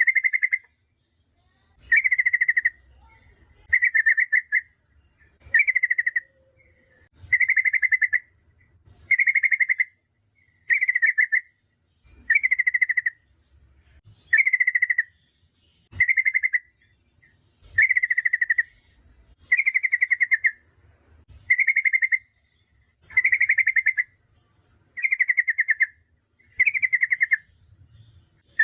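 Yellow-vented bulbul (trucukan) calling: a short, rapid, rattling phrase repeated at an even pace about every two seconds.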